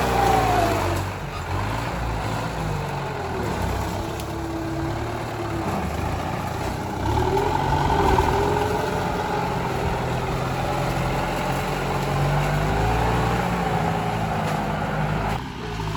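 Tractor engine running under changing load, its pitch rising and falling, with an abrupt change in the sound just before the end.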